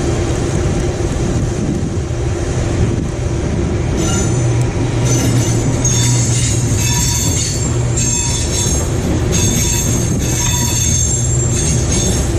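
Electric-hauled double-deck regional train drawing into the station and slowing over a steady low rumble. From about four seconds in, its brakes squeal in several high tones that come and go.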